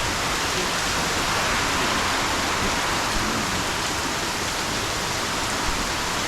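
Heavy thunderstorm rain pouring down, a steady, even hiss with no break.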